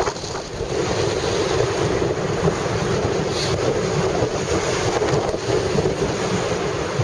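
Storm wind buffeting the microphone over the steady rush of heavy surf, as swell and storm surge from a deep low surge into a harbour.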